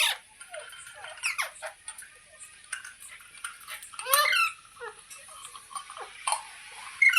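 Green ringneck parrot giving a series of short, shrill, squawking calls, the loudest about four seconds in.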